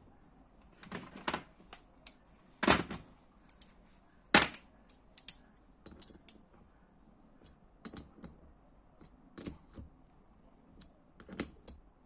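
Irregular sharp clicks and light knocks of small metal engine parts and tools being handled on a workbench, with two louder knocks about three and four and a half seconds in.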